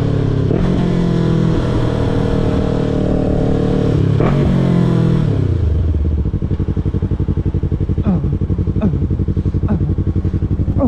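Yamaha YZF-R3's parallel-twin engine running under way, with wind rushing past. About five seconds in the engine note drops as the bike slows, then it settles into a steady, evenly pulsing idle once stopped.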